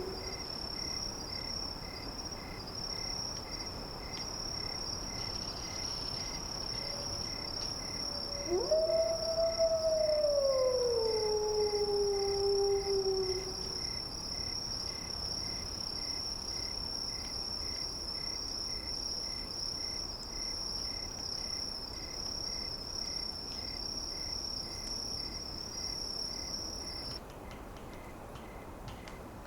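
A long canine howl, wolf-like, about nine seconds in: it swoops up, then slides slowly down in pitch for about five seconds. Under it runs a steady high-pitched trill with a fainter pulsing tone, and the trill stops a couple of seconds before the end.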